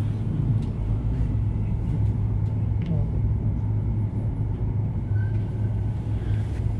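Steady low hum and rumble of background noise picked up through the microphone during a silent pause in the prayer, with a few faint clicks.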